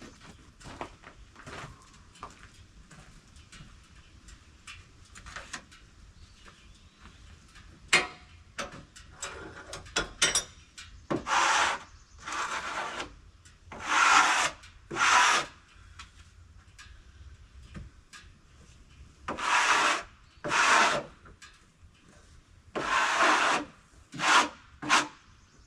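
Rough scraping or brushing strokes, mostly in pairs, about nine in all, in the second half.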